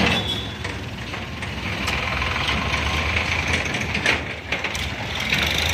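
Tractor engine running steadily at low revs, with a couple of sharp knocks, one at the start and one about four seconds in.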